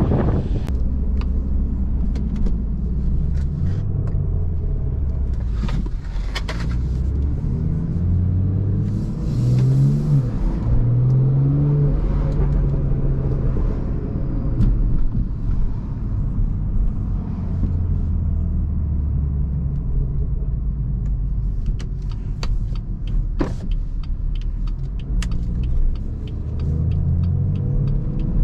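BMW 340i's turbocharged 3.0-litre inline-six (B58) running through a catless downpipe and resonator-delete exhaust while driving. It rises and falls in pitch several times through the gears, with sharp exhaust pops scattered through it, most of them near the end.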